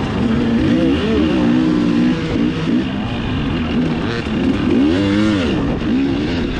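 Dirt bike engine revving up and down under hard riding, its pitch climbing and dropping several times as the throttle is worked, with the biggest rise about five seconds in.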